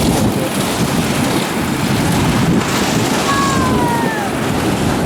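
Mini wedge race cars' engines running slowly under a caution, with wind rushing on the microphone. About three seconds in, a couple of thin falling whistle-like tones cut through.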